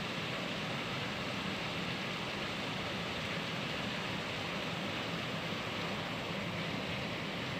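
Heavy rain falling steadily, a continuous even hiss with no breaks or separate hits.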